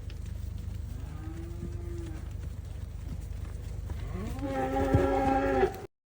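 Cattle mooing in a cattle truck being loaded: a faint low moo about a second in, then a louder, longer moo near the end. A steady low rumble runs underneath, and the sound cuts off suddenly just before the end.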